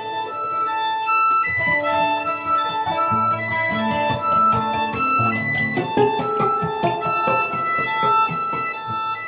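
Acoustic guitar and violin playing free improvised music together: the violin holds long notes while the guitar plucks short notes, with the plucked notes coming thicker and faster from about six seconds in.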